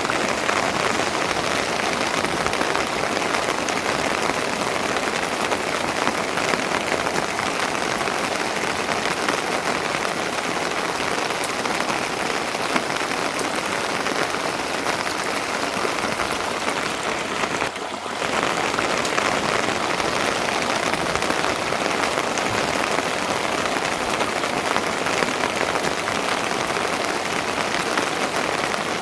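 Steady rain falling, a dense, even patter, briefly dropping away for a moment about 18 seconds in before resuming.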